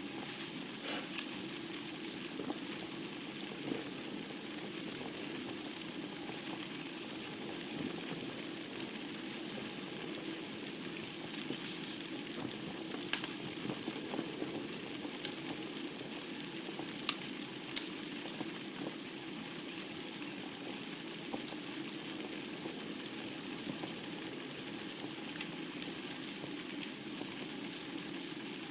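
Wood fire crackling in a fireplace: a steady hiss of burning with sharp pops scattered throughout, a few standing out louder than the rest.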